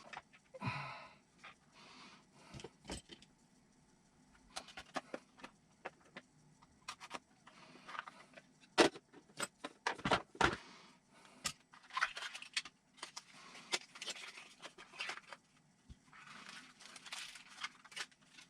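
Scattered clicks, taps and light rattles of small plastic and metal parts being handled and fitted while an RC car kit is assembled, the sharpest click about nine seconds in.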